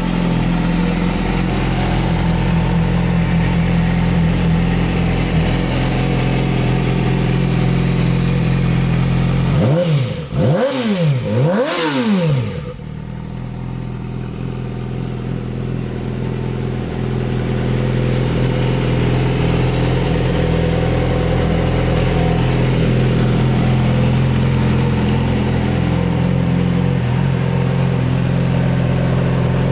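2006 Yamaha R6's 600 cc inline-four engine idling steadily, revved twice in quick succession about ten seconds in, then settling back to idle.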